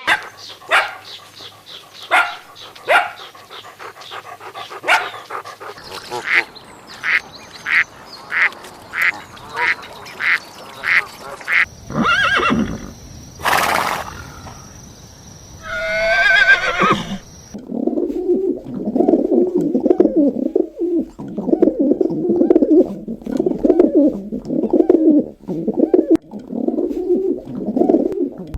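A series of farm animal calls. First come short sharp calls at about two a second, then a few louder drawn-out calls, and from about two-thirds in a lower, faster run of calls.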